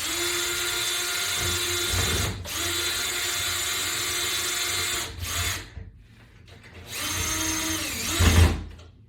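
Cordless drill-driver running in four stops and starts on a toggle bolt's screw: two runs of about two and a half seconds each, a short blip, then a last run that slows and winds down near the end.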